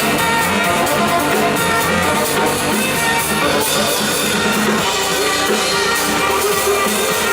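Live band music from a saxophone, synthesizer and drums trio playing at full volume with a steady driving beat.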